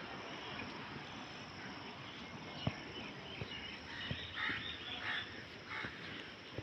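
Outdoor nature ambience: a steady hiss with a cluster of short animal calls in the second half.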